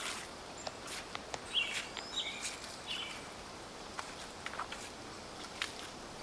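Footsteps crunching and crackling through dry fallen leaves, with a bird giving a few short calls about two seconds in.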